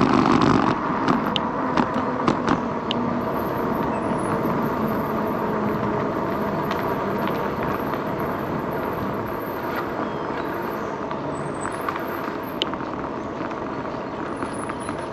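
Steady riding noise from an electric bike moving along the trail, picked up by an action camera. It has a few small clicks and knocks and grows slightly quieter toward the end.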